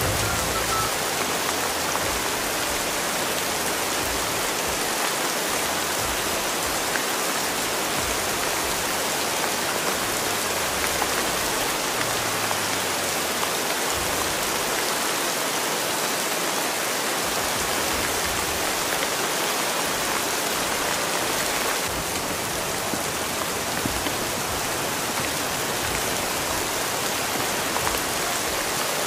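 Rain ambience: a steady, even hiss of falling rain.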